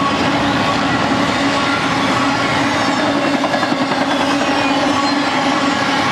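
Freight train's intermodal cars, loaded with highway trailers, rolling past at speed: steady, loud wheel-on-rail rumble and clatter with a steady tone running through it.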